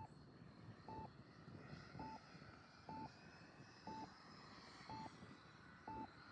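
RC radio transmitter's flight timer beeping its final countdown, one short high beep about every second, just before the timer runs out.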